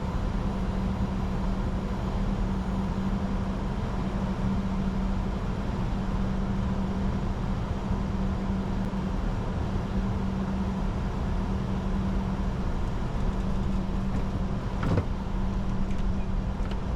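Steady cockpit noise of a Bombardier Challenger 605 business jet in flight on descent: a constant rush of noise with a steady low hum under it. A single brief click about 15 seconds in.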